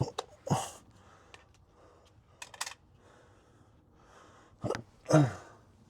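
A man's short breathy grunts of effort, one about half a second in and a louder one near the end, among scattered small clicks and taps of handling parts.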